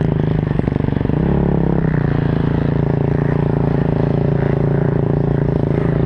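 KTM 250 SXF motocross bike's 250 cc single-cylinder four-stroke engine running, heard onboard. The pitch shifts with the throttle and there is some clatter over the first two seconds, then the engine holds a steady note.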